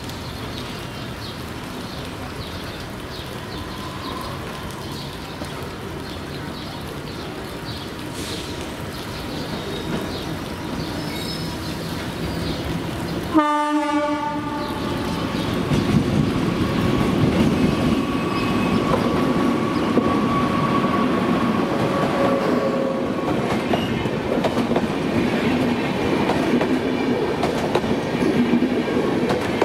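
A passenger train hauled by an Indian Railways WAP-7 electric locomotive rolling past with a steady rumble and the clickety-clack of wheels over rail joints. It grows louder about halfway through, with a brief pitched tone there.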